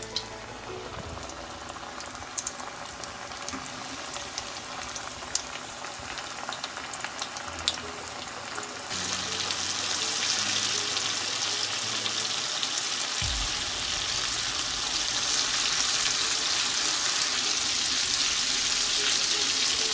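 Battered chicken pieces deep-frying in hot oil: a steady sizzling hiss, with a few light clicks over the first several seconds. About nine seconds in, the sizzle turns abruptly louder and stays strong.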